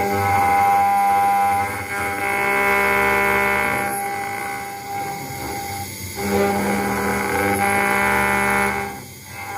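CNC router spindle running while engraving a brass plate: a steady, high whine made of several tones, which dips and swells in level a few times, about two seconds in, around five seconds and near the end.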